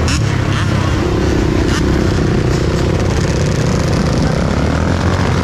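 Steady wind rush on an action camera's microphone while riding a Sur-Ron electric dirt bike, with a faint motor whine that drifts slowly in pitch and a couple of brief clicks.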